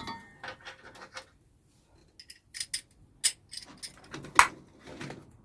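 Small metal hardware clinking and clicking as it is handled and sorted, in irregular taps with a short pause near the two-second mark and the loudest clink about four and a half seconds in.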